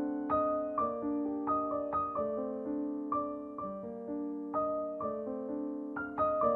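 Gentle background piano music, notes struck about twice a second and left to ring.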